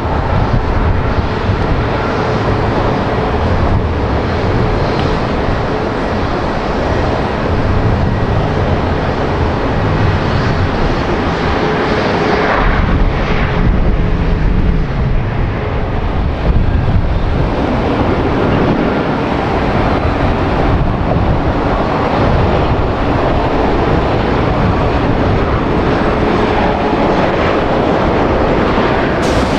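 Jet airliner engines, loud and continuous, passing close by, with a sweeping shift in tone about halfway through as the aircraft goes past.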